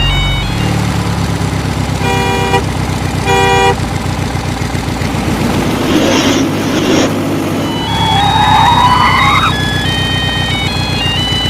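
Toy vehicle sound effects: a steady engine rumble with two short horn beeps, then a hiss and a rising whine, and a simple electronic jingle starting again near the end.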